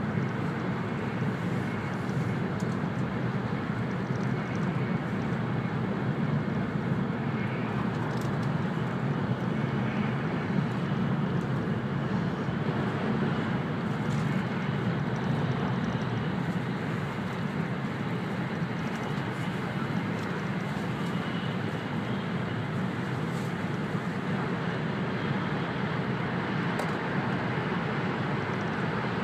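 Steady running noise of an E2 series Shinkansen at speed, heard inside the passenger cabin: a low rumble from the wheels and track under a rush of air.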